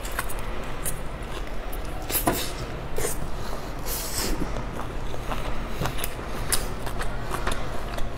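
Close-miked chewing and biting of dumplings: irregular wet mouth clicks and smacks, with a few louder bursts about two to four seconds in.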